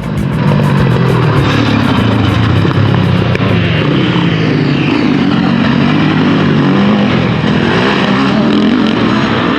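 Motocross sidecar outfit's engine revving hard and backing off, its pitch rising and falling again and again as it is ridden round the track.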